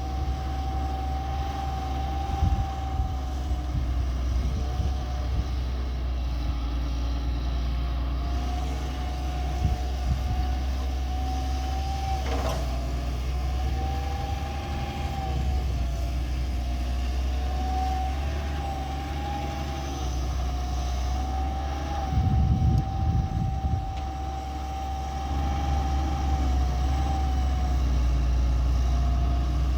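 Excavator's diesel engine running with a steady low rumble under a high hydraulic whine that wavers slightly in pitch as the machine works, with a single sharp knock about twelve seconds in.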